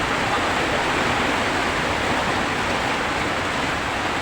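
Steady hiss of heavy rain, even and unbroken.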